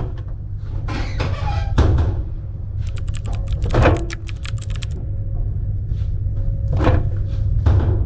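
Knocks and thumps from handling laundry machines, with a quick run of about ten clicks a second for two seconds midway, over a steady low machinery hum.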